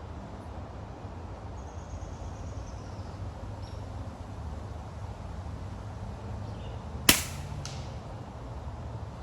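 Moderated shot from an FX Indy air rifle fitted with a DonnyFL Sumo moderator: a single sharp crack about seven seconds in, followed about half a second later by a fainter click.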